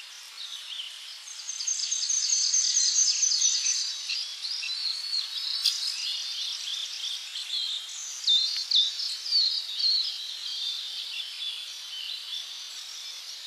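Several birds chirping and singing together, with a fast, high trill in the first few seconds and bursts of quick downward-slurred chirps around the middle.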